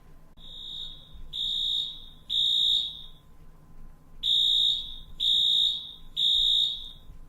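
Alarm sound file played back as the alarm of a motion-triggered home security system: loud, high beeps in two groups of three with a short pause between the groups, the first beep fainter than the rest.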